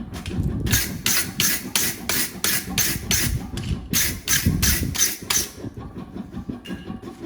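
A fast, even run of hammer blows on hot steel during forging, about three a second for some five seconds, over a low machine rumble; the blows stop about two-thirds of the way through.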